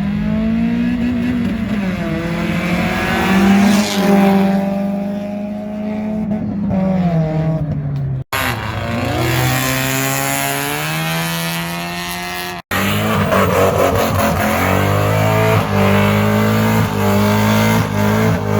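Car engines revving and accelerating, their pitch rising and falling. The sound drops out abruptly twice, about eight and twelve and a half seconds in. After the second break a loud, steady engine note runs on.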